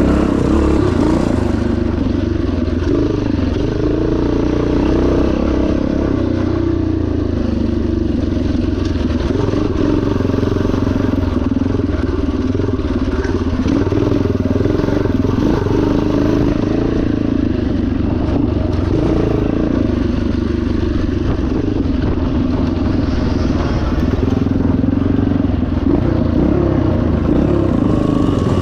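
1977 Yamaha TT500's single-cylinder four-stroke engine running continuously, its pitch rising and falling with the throttle.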